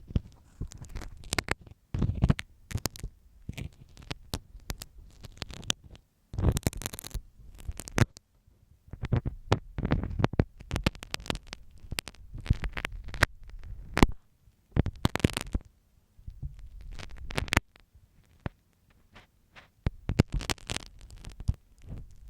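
Close-up scratching and tapping of a dressmaker's pin inside a microphone's ear, used as an ear pick: irregular clicks and scraping rubs with a dull rumble of contact on the mic, in short runs broken by brief pauses.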